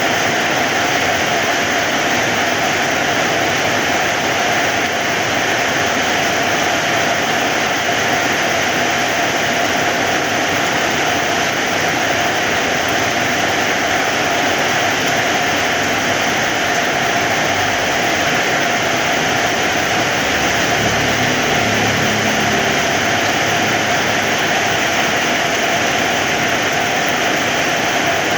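Heavy rain falling steadily, an even loud hiss of downpour, with a faint low rumble for a few seconds about two-thirds of the way through.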